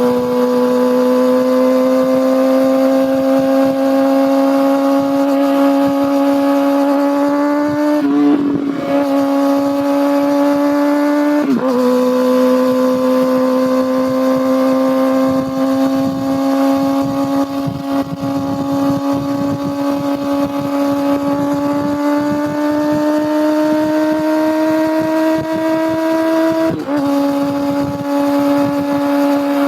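Kawasaki ZX-6R's inline-four engine and exhaust running at high, nearly steady revs while riding, the pitch creeping slowly upward. The note briefly breaks and changes about eight seconds in, again around eleven seconds, and once more near the end.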